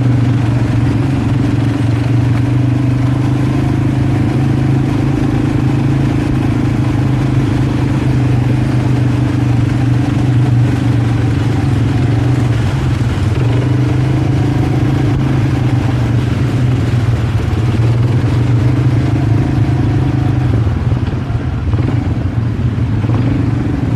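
A vehicle engine running steadily under way, its low hum holding nearly level with small dips and rises in pitch.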